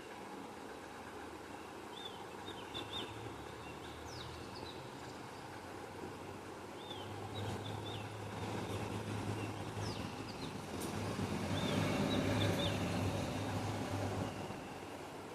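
Small birds giving short high chirps in little clusters every few seconds, while a passing vehicle's low hum builds from about halfway, peaks, then drops away near the end.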